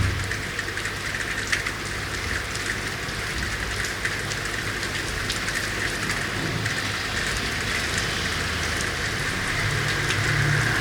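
Steady rain falling on city street surfaces, a dense hiss of many small drop ticks. A low rumble builds toward the end.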